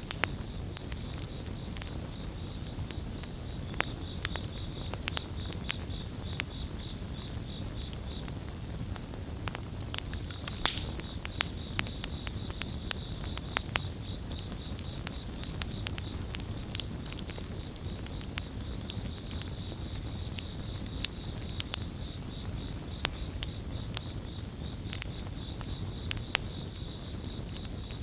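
Wood campfire crackling, with frequent sharp pops and snaps over a low rumble of the flames. Crickets chirp in a steady, high, pulsing trill that drops out briefly about a third of the way in.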